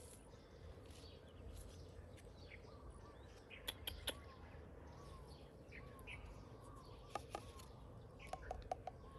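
Faint small birds chirping with short repeated calls, with a few light clicks about four seconds in and again near the end.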